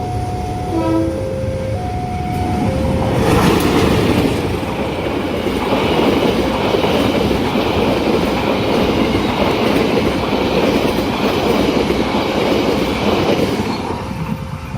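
A train passing a level crossing, its wheels and cars rolling by loudly for about ten seconds. The crossing's warning chime, two alternating tones, sounds before the train arrives and comes through again as it clears near the end.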